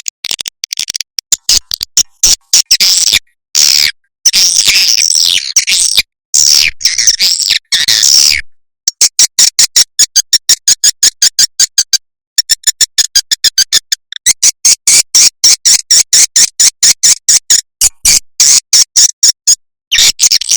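Edible-nest swiftlet calls played as a lure track. Twittering, chirping calls fill the first several seconds, then about nine seconds in a long run of sharp, evenly spaced clicks takes over at about five a second. The sound is broken by a few brief, abrupt silences.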